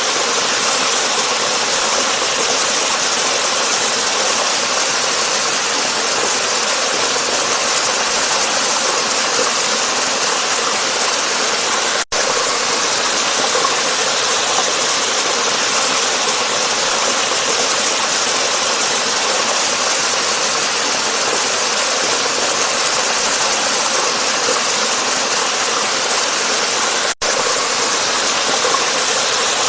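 Waterfall: a steady, full rush of falling water with no change in strength. It cuts out for an instant twice.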